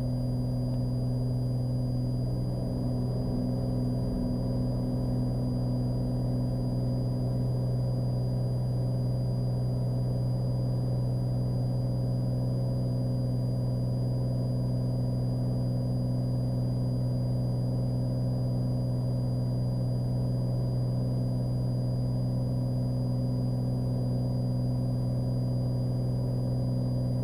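Cabin drone of a Cessna Skylane's single piston engine and propeller at climb power just after takeoff: a steady low hum that holds the same pitch throughout.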